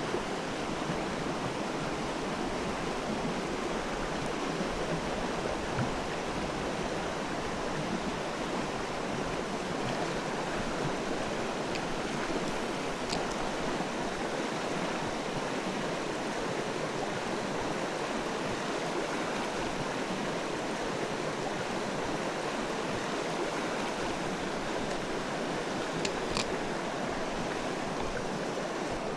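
A mountain stream's water rushing steadily, with a couple of faint clicks about halfway through and near the end.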